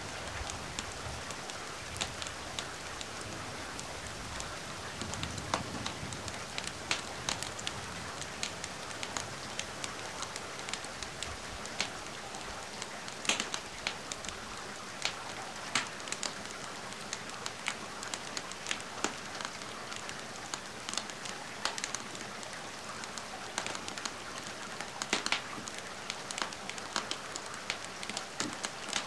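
Steady rain hiss mixed with the crackle of a wood fire, with sharp pops scattered throughout. A low rumble underneath fades out over the first several seconds.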